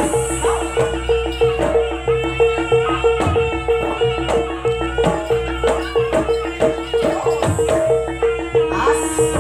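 Jaranan music from a gamelan-style ensemble: a pitched gong-chime plays a steady repeating figure about three to four strokes a second over drums and rattling percussion.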